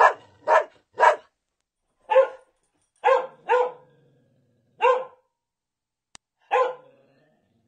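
A dog barking: about eight short, single barks with irregular pauses between them.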